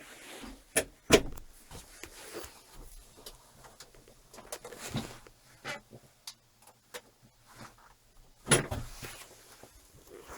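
Irregular clicks and knocks, the loudest two about a second in and another near the end, with lighter ticks between.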